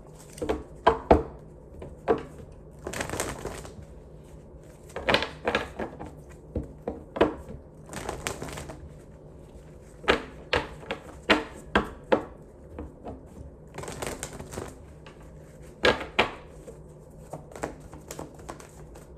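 Handling noises: an irregular run of sharp clicks and taps, with a few brief rustling stretches.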